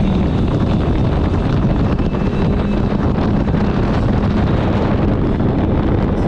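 Motorboat running underway at steady speed, with wind buffeting the microphone.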